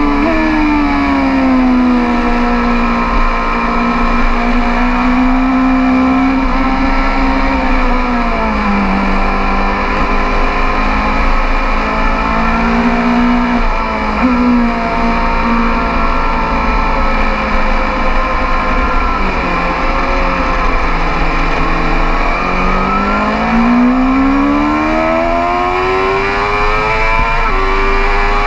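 BMW S 1000 RR inline-four engine at race pace, heard from on the bike: the engine note drops several times as it slows, holds steady between, then climbs hard under full acceleration near the end with a brief dip at a gear change.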